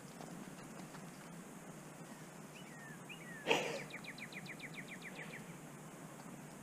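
A songbird sings a rapid trill of evenly spaced high notes, about eight a second, for under two seconds, preceded by a couple of short falling chirps. A single sharp, loud sound comes just before the trill, over steady outdoor background noise.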